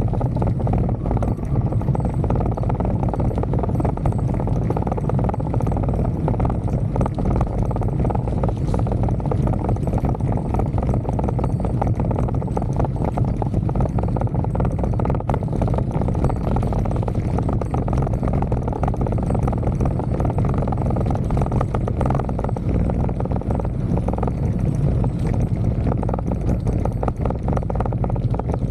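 Wind buffeting the microphone on a fast bicycle downhill, a steady low rumble, with the bike rattling and clicking over the road surface throughout.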